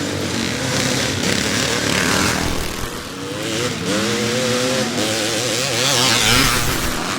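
Classic motocross motorcycles racing, their engines revving with the pitch rising and falling, loudest a little after the middle.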